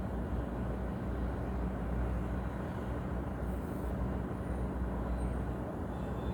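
Steady low rumble of vehicle traffic, with a brief faint high hiss about three and a half seconds in.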